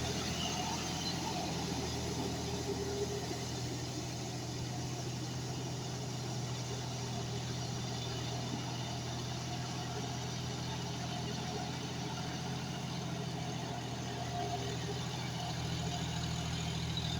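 John Deere 5105 tractor's three-cylinder diesel engine running steadily at an even pitch.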